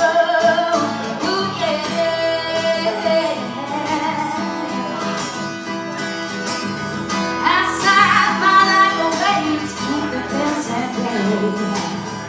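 A song sung with acoustic guitar accompaniment, the voice holding long, wavering notes between the lines.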